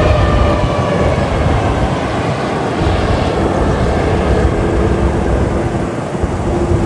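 Jet airliner passing close by, its engines a loud, steady rumble with a faint whine over it.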